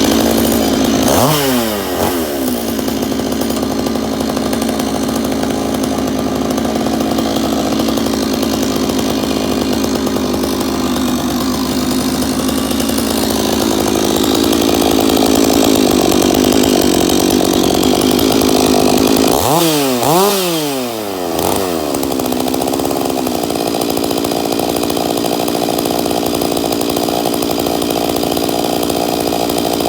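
Stihl MS461 two-stroke chainsaw with a custom billet-aluminium muffler cap running steadily at high revs. Engine speed dips briefly about a second in and dips again, longer, around twenty seconds in, then climbs back.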